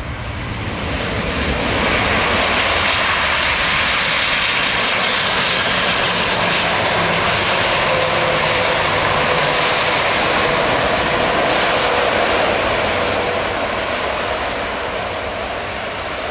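Jet airliner passing low on its landing approach: the engine rush swells over the first couple of seconds, holds steady and loud, then eases a little near the end.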